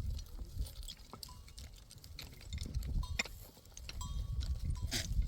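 A herd of goats moving about, their small bells clinking now and then over a low rumble.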